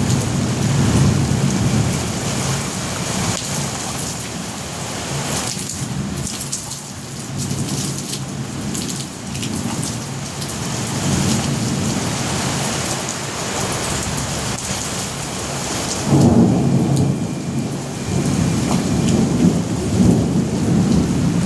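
Thunderstorm: thunder rumbling over steady heavy rain, the rumble swelling and easing, with a louder clap of thunder setting in about three quarters of the way through.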